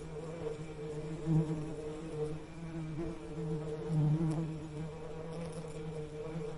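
Bees buzzing in a steady, low hum that swells louder briefly about one and a half seconds in and again about four seconds in.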